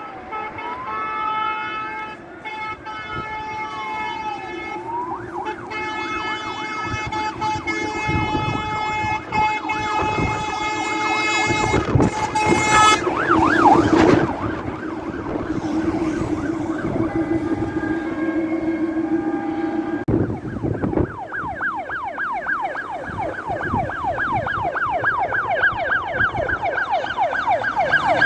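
Fire engines on an emergency run: a siren wails slowly up and down, then powerful air horns blare in long held blasts for several seconds. Later a fast yelping siren repeats about three times a second over the low drone of the diesel trucks.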